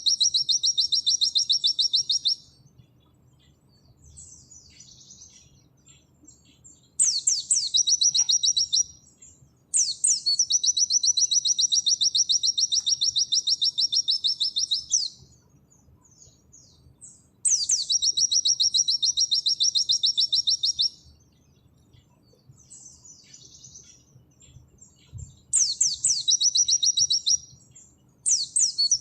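Pleci (white-eye) singing its 'nembak' song: long, rapid, high-pitched trills lasting two to five seconds each, every one opening with a few quick downward-sweeping notes, repeated about five times with short pauses of softer chips in between.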